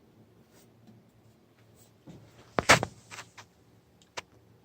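A few light knocks and clicks over a faint low hum, the loudest a quick pair of knocks about two and a half seconds in, and a single sharp click near the end.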